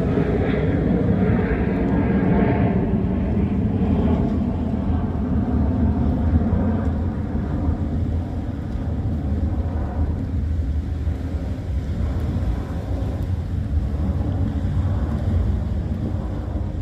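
Low engine rumble of a passing vehicle, strongest in the first few seconds and slowly easing off.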